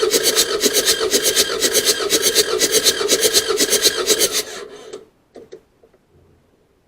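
Diesel engine cranked over by its starter motor without firing, as during a compression test: a fast, even chugging over a steady hum. It stops about four and a half seconds in, followed by a couple of faint clicks.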